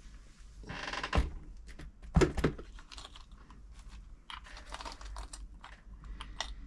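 Small clicks and knocks of hands fitting a new needle into a sewing machine, with a brief rustle about a second in and one sharper click a little after two seconds.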